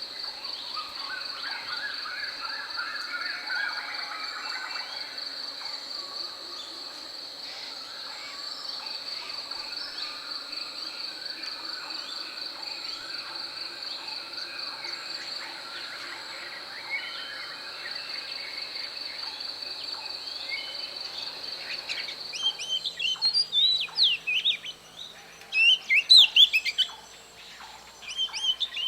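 Wild birds calling over a steady, high, pulsing insect trill. About three quarters of the way through, the trill stops and a bird gives loud, quick chirps that sweep up and down in pitch, in two bursts.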